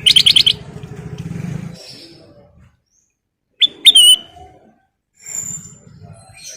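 Kutilang emas bulbul singing: a quick burst of rapid chirping notes at the start, then after a pause two sharp whistled notes about four seconds in. A low engine-like hum sits under the first two seconds.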